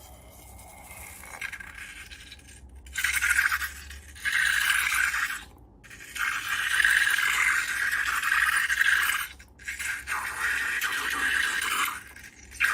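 Scraping, heard as about four bursts of one to three seconds each, separated by short breaks.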